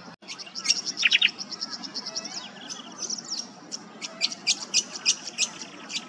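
Tawny grassbird calling: rapid runs of short, high, sharp notes repeated several times a second, with a quick falling series of notes about a second in.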